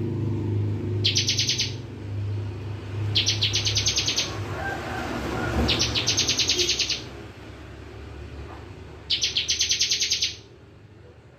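Ciblek (bar-winged prinia) singing its rapid 'bren' trill: four bursts of fast, evenly repeated high notes, about ten a second, each under a second to about a second and a half long. A low steady hum lies under the song.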